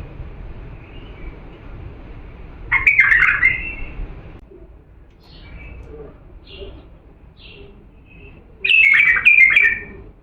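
Bulbul singing: two loud, rich song phrases, one about three seconds in and one near the end, with short soft notes between them.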